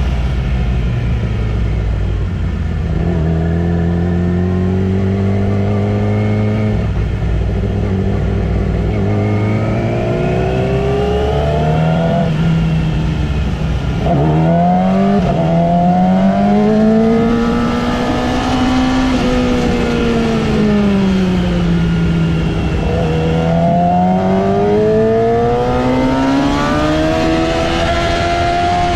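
Yamaha R6 inline-four sport bike engine under hard acceleration on track. Its pitch climbs and drops sharply at gear changes several times in the first half. Later it sweeps smoothly down and back up through corners.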